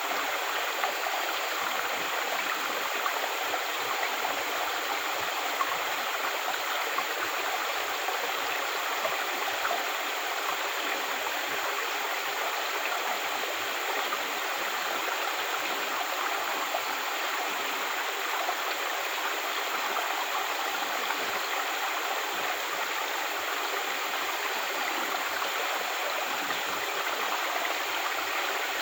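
Water flowing steadily in a natural stream, a continuous even rush and babble.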